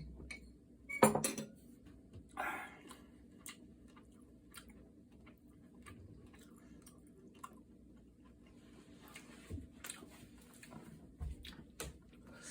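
Eating sounds: chewing, with scattered small clicks and clinks of utensils and dishes and two louder bursts early on.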